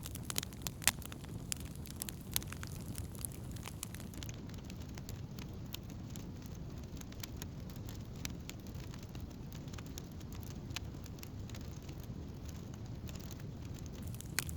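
Wood campfire burning: many small sharp crackles and pops from the burning wood over a steady low rumble.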